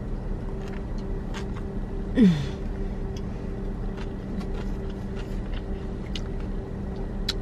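Chewing with faint mouth clicks over the steady hum of a running car. About two seconds in comes a short, falling "mmm" of enjoyment.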